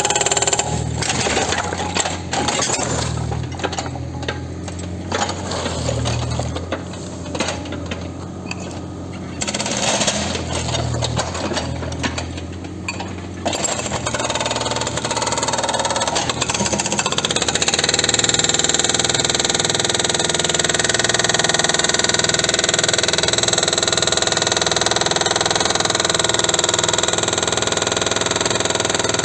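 A machine running, with a dense rattling clatter over its low hum for about the first half, then settling into a steadier running sound with a high whine.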